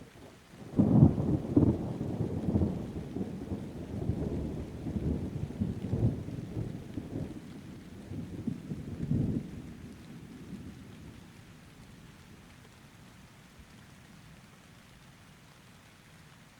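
A thunderclap that starts suddenly about a second in, then rumbles in repeated swells for about nine seconds before dying away, over steady rain.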